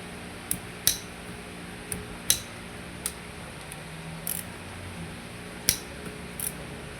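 Scattered sharp clicks and clinks as hand tools and engine parts are handled during engine reassembly, about eight in all at an irregular pace, over a low steady hum.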